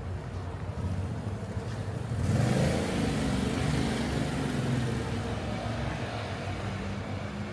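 A car driving past with its engine audible, coming up suddenly about two seconds in and then slowly fading away, over steady street noise.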